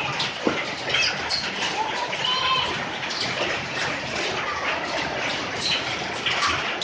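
Hail and heavy rain pelting down: a steady dense hiss scattered with many sharp hailstone impacts.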